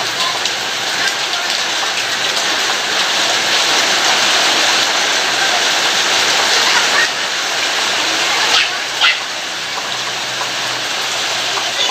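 Heavy rain falling steadily in a loud, even hiss, with two brief sharper sounds about three-quarters of the way through.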